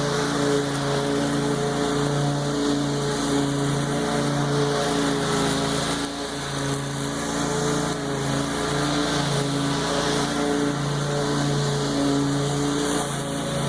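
Small lawn mower engine running steadily under load while cutting tall grass. Its pitch dips and recovers slightly as it works.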